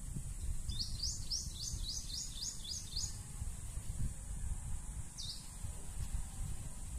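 A songbird calls a quick series of high descending chirps, about nine in two seconds, then two single chirps later on, over a low, uneven rumble.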